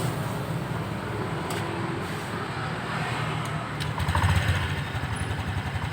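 Honda Beat scooter's single-cylinder four-stroke engine idling steadily, briefly rising about four seconds in, with no rattle to be heard at this moment.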